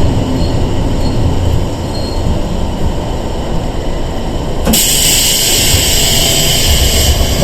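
Sangi Railway 101 series electric train running, heard from inside the car as a steady low rumble. About two-thirds of the way in, a loud hissing rush starts suddenly and keeps going.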